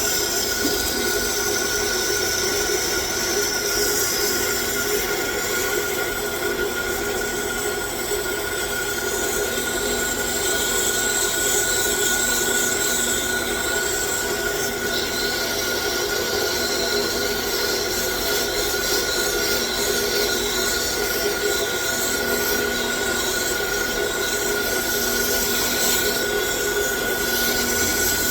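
9x20 gear-head lathe running steadily, its gear train giving a constant whine, while 120-grit sandpaper rubs against the spinning workpiece with a steady hiss.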